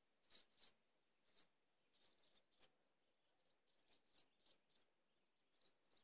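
Faint small birds chirping: short, high chirps in quick clusters of two to four, repeated every second or so.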